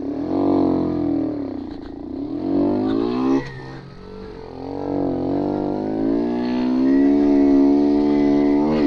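Romet Ogar 202's small 50cc single-cylinder engine revving under way. Its pitch rises, falls back and rises again, drops sharply about three and a half seconds in, then builds steadily and holds high. The engine pulls without bogging now that its carburettor slide has been trimmed.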